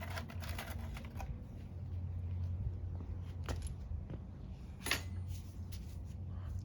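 Scattered light clicks and taps of tools and small metal parts being handled, one sharper click about five seconds in, over a steady low hum.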